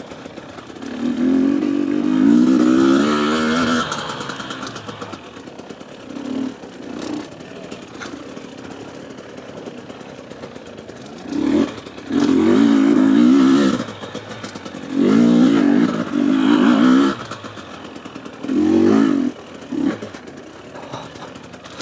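Two-stroke enduro motorcycle, a Husqvarna TE250, being ridden slowly off-road. The engine rises in about five short bursts of throttle, each dropping back to a quieter, lower run in between.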